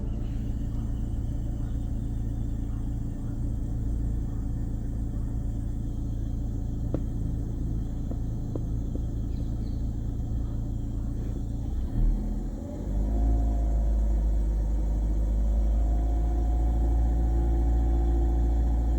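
Car engine running at a steady idle with a low rumble. About twelve seconds in it steps up to a louder, fuller, steady drone and holds there.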